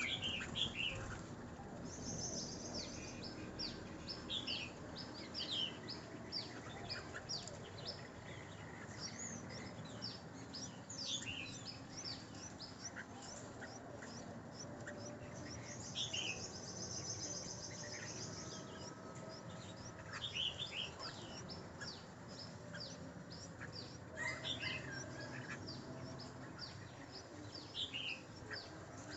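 Small birds chirping: a steady run of short, high, falling chirps, with two longer high buzzy stretches, one near the start and one about halfway through.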